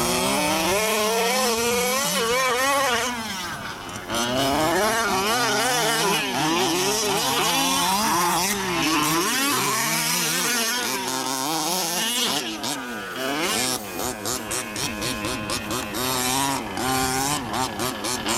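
Two-stroke petrol engine of a Losi 5T 1/5-scale RC truck revving as it drives, its pitch rising and falling over and over with the throttle, briefly quieter about a quarter of the way in.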